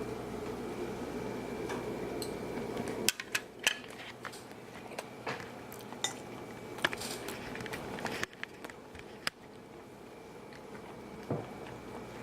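A fork clinking and scraping on a dinner plate, a scatter of sharp clicks over several seconds as a bite is taken. A steady background hum drops out about three seconds in.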